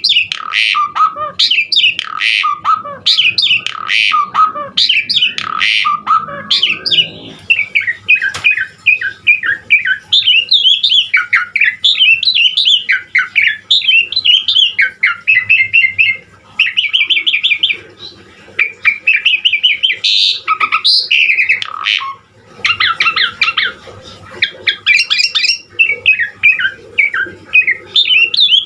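Pied starling (jalak suren) singing vigorously: a fast, varied run of chattering, squawking and whistled notes with a few brief pauses.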